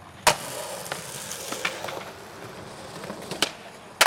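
Skateboard on concrete during a hard flip attempt down a four-stair: wheels rolling, with a loud sharp crack of the board about a quarter second in and more hard board slaps and clatters near the end.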